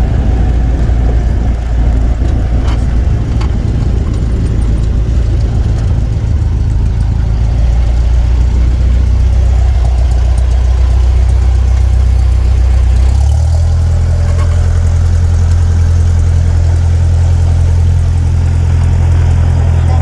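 Single-engine Cessna's propeller engine droning steadily, heard from inside the cabin; about two-thirds of the way through its note steps up to a higher pitch as the engine speed changes.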